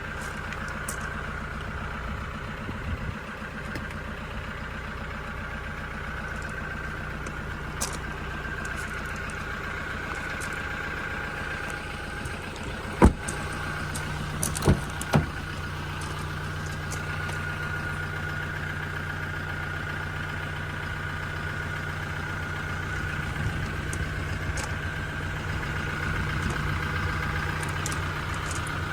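Toyota Hilux Invincible X diesel engine idling steadily. There is a sharp knock about halfway through and two more shortly after.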